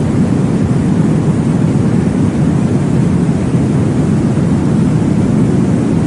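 Steady, deep whooshing noise of a womb-sound sleep track for babies, meant to imitate blood flow heard in the womb. It runs evenly with no pauses or changes.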